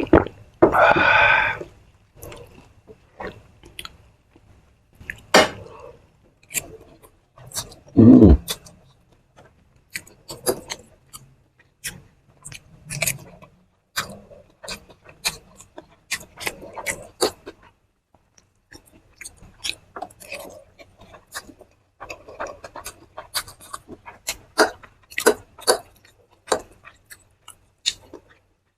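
A person eating fuchka, crunching the crisp puffed puris and chewing wetly, with many short crackles and mouth noises. A short voice sound comes just after the start, and another with a falling pitch about eight seconds in.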